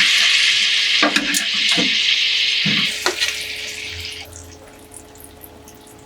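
Kitchen tap running into a sink, a steady stream of water with a few light knocks of things being handled in it; the flow stops about four seconds in.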